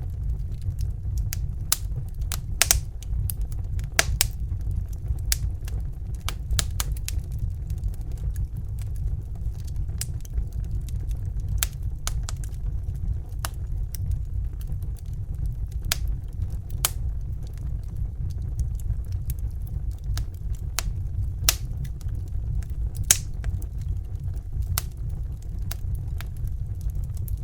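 Crackling wood fire giving irregular sharp pops and snaps over a steady low rushing noise, the gas flame of a Bunsen burner.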